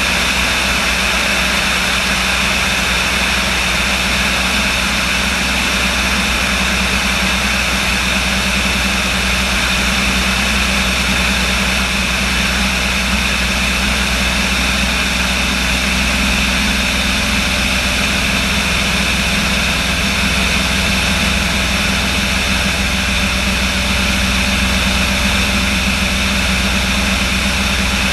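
Light aircraft's engine and propeller running at a steady drone, with no change in pitch.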